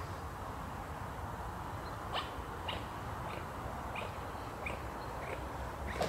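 A bird chirping in a run of short, high calls, one roughly every half second to second, starting about two seconds in, over a steady low outdoor rumble.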